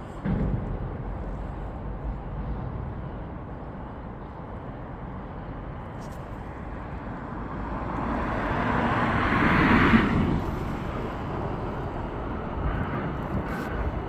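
Steady outdoor traffic noise, with a vehicle passing close that builds for a few seconds, peaks about ten seconds in and quickly falls away.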